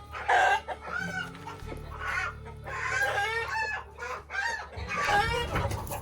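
Chickens clucking and squawking in a string of short calls.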